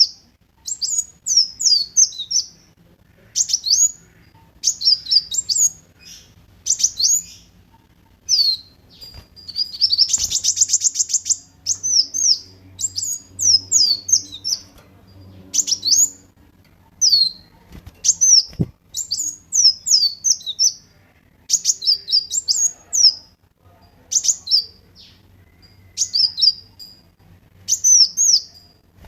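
Kolibri wulung sunbird singing: short, high, sharp chirping phrases repeated about once a second, with a rapid buzzy trill about ten seconds in.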